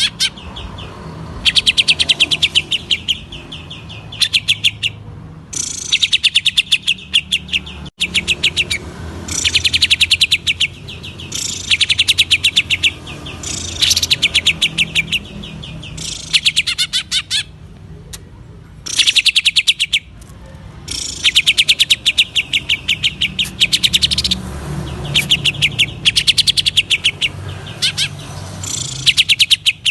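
Green leafbird (cucak ijo) singing in the rapid stuttering 'ngentrok' style: runs of fast, sharp repeated notes, each about a second long, coming again and again with short pauses between them.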